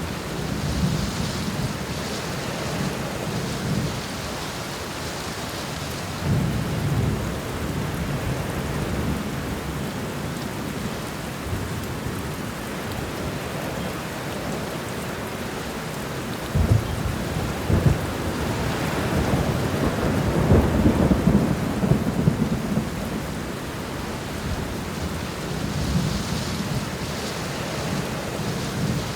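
Steady heavy rain with rolling thunder. Low rumbles swell and fade several times, and about two-thirds of the way through two sharp cracks lead into the longest, loudest roll.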